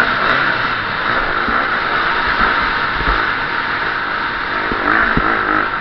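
KTM 350 SX-F's single-cylinder four-stroke engine revving up and down as the motocross bike is ridden hard, under a steady rushing noise with occasional low thumps.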